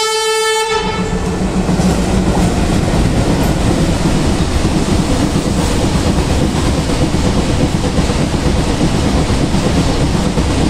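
Twin WDM3D diesel-electric locomotives' horn sounding and cutting off under a second in. Then the locomotives and their train run past with a steady low rumble and wheels clattering over the rail joints.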